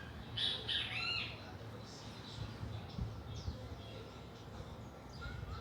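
Birds chirping: a quick cluster of short, curving calls about half a second in, a few fainter chirps around the middle, and another cluster starting just before the end, over a low steady hum.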